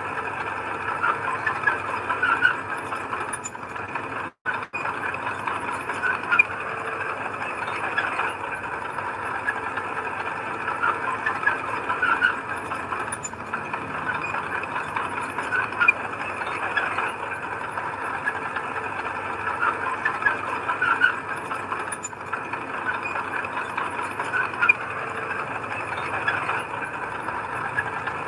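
Crawler bulldozer working, its engine running steadily under a constant squealing, clanking chatter of the steel tracks. The sound cuts out for a moment about four seconds in.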